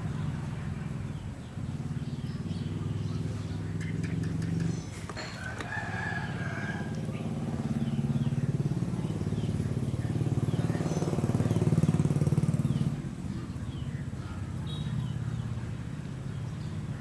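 A rooster crows once, about five and a half seconds in, over a steady low motor hum.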